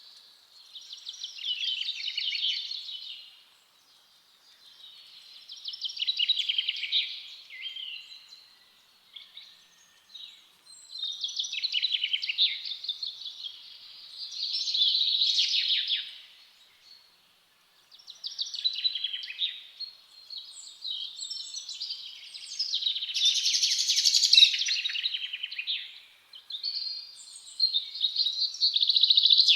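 Songbirds singing: repeated phrases of rapid, high chirping trills, each two to three seconds long with short pauses between, the phrases running closer together near the end.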